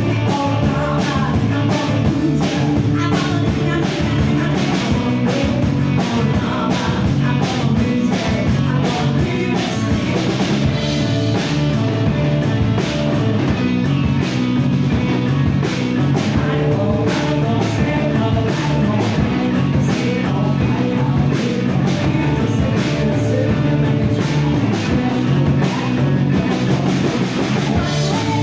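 Rock band playing: drum kit and electric guitar, with singing, loud and steady throughout.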